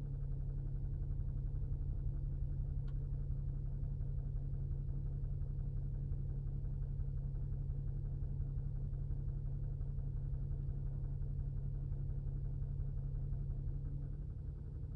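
Polestar 2 electric car making a steady low rattling clatter with a hum while slow charging. The clatter is the unexplained charging noise the owner is recording.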